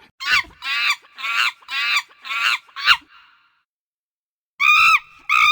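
Bird calls: a quick run of about six short, pitched calls, then silence for more than a second, then two longer, steadier calls near the end.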